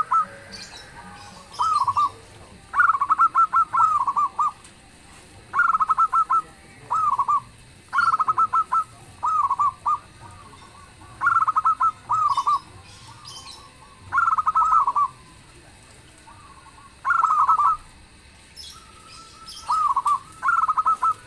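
Zebra dove (perkutut) cooing: phrases of quick staccato notes, repeated about every two to three seconds, roughly nine phrases in all.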